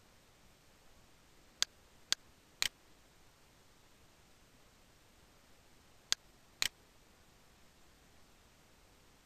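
Computer mouse button clicks: five sharp clicks in two groups, three close together about two seconds in and two more around six seconds in, over a faint steady hiss.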